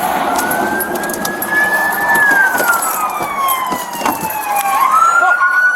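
Emergency vehicle siren wailing: its pitch rises, sinks slowly over a couple of seconds, then climbs again near the end, with scattered sharp clicks and knocks.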